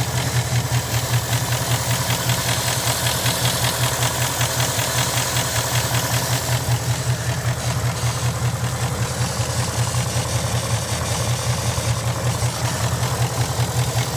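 2018 GT's engine idling with a fast, even mechanical clacking over the hum, the sound the owner traces to the throttle body area or the direct-injection fuel pump.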